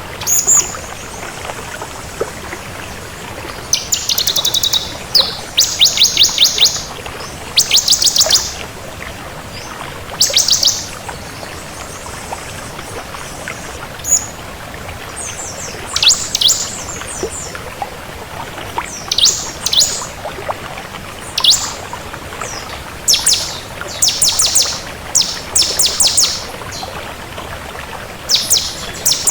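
Ciblek kristal (bar-winged prinia) singing: quick trains of high, sharp, ticking notes in short phrases, repeated every second or few seconds with pauses between, over a steady background hiss.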